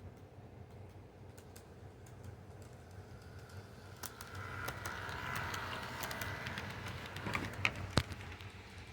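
Toy train set running on its track: a small electric motor whirring and the wheels clicking, louder from about four seconds in, with two sharp clicks near the end.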